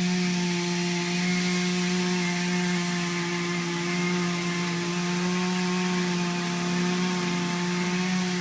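Small dirt bike engine running at a steady speed, holding a nearly constant pitch.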